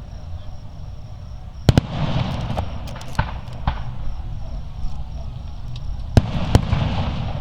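Fireworks bursting: sharp bangs in two clusters, about two seconds in and about six seconds in, each trailing off into a crackle.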